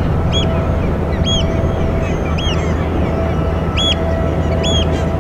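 Short high bird calls, about five over a few seconds, each a quick rising-and-falling note, over a steady low rumble.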